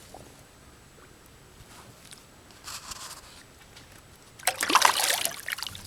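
Water splashing and sloshing beside a small boat: a short splash about three seconds in, then a louder splash lasting about a second from about four and a half seconds in.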